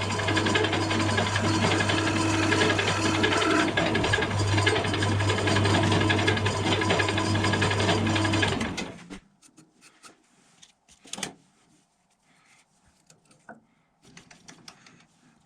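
Electric power tool running while shaping a plywood pulley, with a steady motor hum and a rasping rub of wood. It stops abruptly about nine seconds in, followed by a few light knocks of handling.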